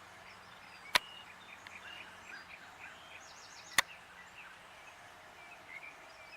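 Small birds chirping and singing steadily in the background, with a quick high descending trill partway through. Two sharp clicks about three seconds apart stand out as the loudest sounds.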